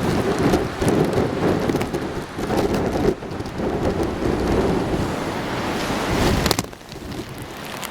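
Typhoon wind buffeting the microphone in a heavy rumble, with rain and breaking surf under it; it eases briefly about six and a half seconds in, then picks up again.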